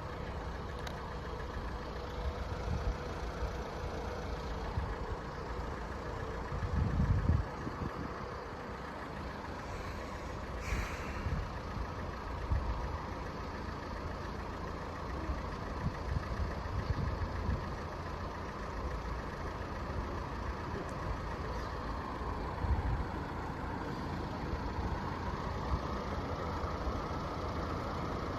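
Steady running of idling vehicle engines, with low rumbles that come and go, the strongest about seven seconds in, and a brief hiss about eleven seconds in.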